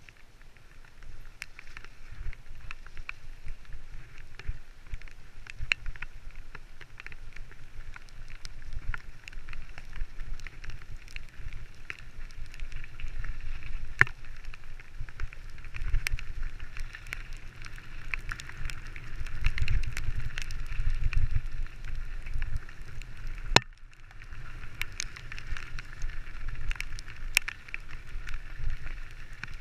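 Mountain bike riding down a rough trail: tyre noise with frequent sharp knocks and rattles from the bike, over a low rumble of wind on the microphone.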